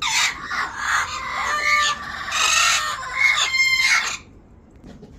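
Parrots squawking: a run of loud, harsh calls that stops about four seconds in.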